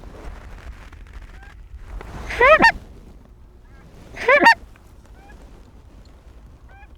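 Goose honking: two loud, close honks about two seconds apart, each a breaking note that drops in pitch, with fainter honks from farther off in between.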